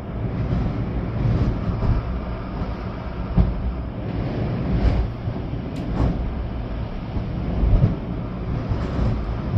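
Storm wind gusting with rain, buffeting the microphone with a low rumble that swells and eases, and a few sharp ticks about five to six seconds in.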